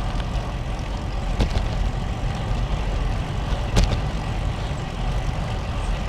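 Wind buffeting a bicycle-mounted action-camera microphone while riding, a steady low rumble. Two sharp clicks cut through it, about a second and a half in and again near four seconds.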